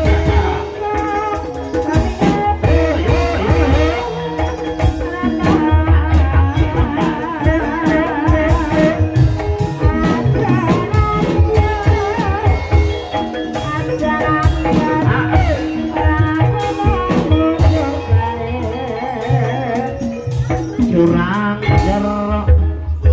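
Live ebeg accompaniment music: a Javanese gamelan-style ensemble with deep drum strokes, struck tuned percussion and a wavering sung melody over a steady beat.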